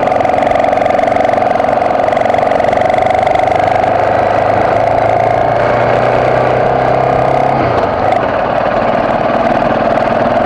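BMW F650GS motorcycle engine running steadily at low speed, with a shift in its note about three-quarters of the way through.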